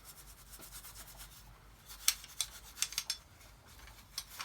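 Cloth rubbing clear finishing wax onto an old toolbox, with a handful of sharp little clicks and taps, most of them bunched about two to three seconds in.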